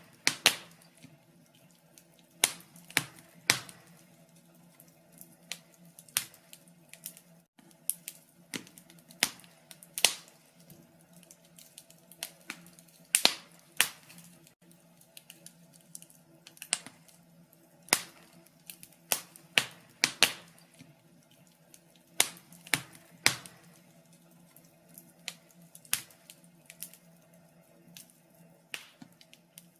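Wood fire in a fireplace crackling: irregular sharp pops and snaps, one to three a second and of varying strength, over a faint steady low hum.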